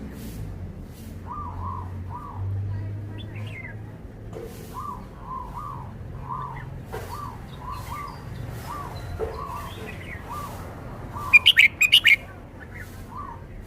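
Red-whiskered bulbul singing: a run of soft, short chirps repeating about twice a second, broken by a loud, sharp phrase of four or five quick notes about eleven seconds in.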